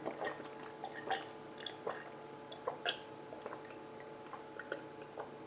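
Scattered soft clicks and small wet smacks of someone eating spaghetti, with a few light taps of cutlery, over a faint steady hum.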